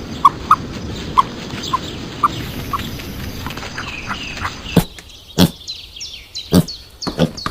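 Small birds chirping again and again over outdoor background noise. About five seconds in, the chirps give way to a run of short, sharp animal sounds.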